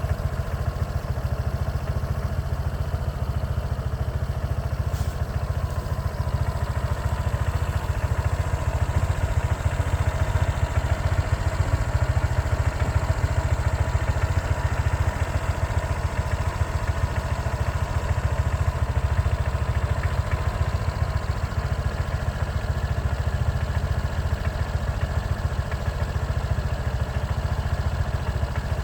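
A vehicle running steadily, with a continuous low engine and road rumble.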